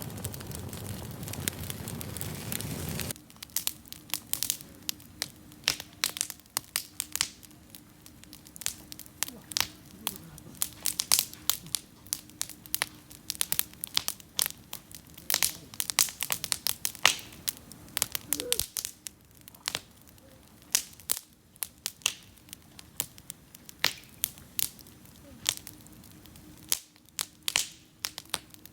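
Wood campfire crackling, with many sharp irregular pops and snaps. A rushing noise runs for the first three seconds, then stops.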